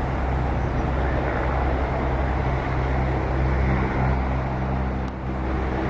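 Steady low engine rumble with a constant hum, from a vehicle or aircraft engine running.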